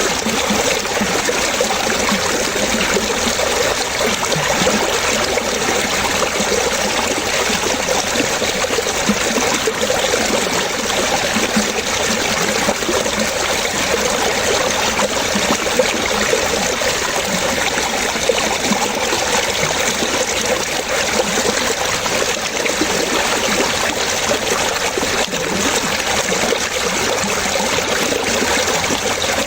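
Water trickling and splashing in a steady, unbroken flow, like a small stream.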